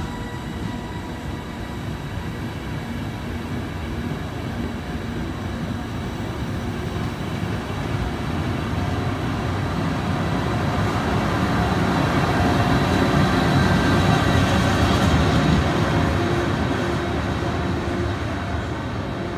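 Electric passenger train rolling along the platform track: a steady rumble of wheels on rails that grows louder, is loudest about two-thirds of the way through, and then eases off.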